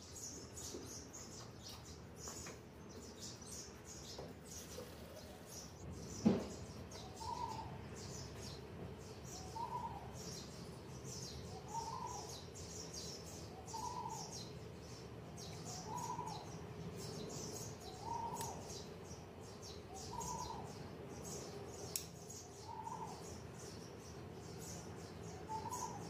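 Birds chirping continuously, with a short rising-and-falling call repeated about every two seconds from about seven seconds in. A single sharp knock about six seconds in.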